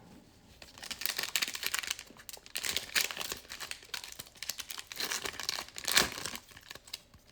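Plastic trading-card pack wrappers crinkling and tearing as packs are handled and ripped open, an irregular run of crackles.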